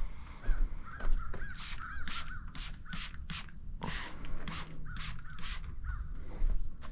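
A bird calling a quick run of short, arching notes, twice, with sharp knocks in between.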